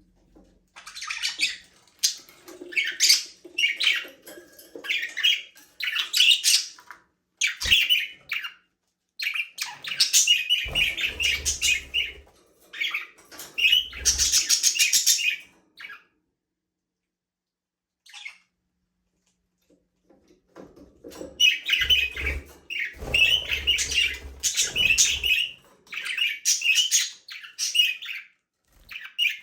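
Budgerigars chirping and chattering in quick bouts, falling quiet for several seconds midway before starting up again.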